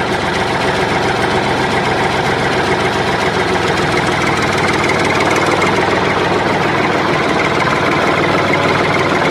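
Tractor engine idling steadily with no change in speed, an engine recording standing in for the toy tractor.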